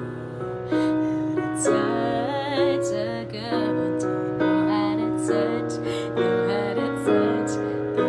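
Keyboard playing slow, sustained piano chords in a soft ballad, with a woman's voice bending through a wavering vocal run about two seconds in.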